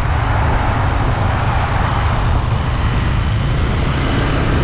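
Steady wind and road rumble on the GoPro Hero 8's built-in microphone of a moving motorcycle, heaviest in the low end.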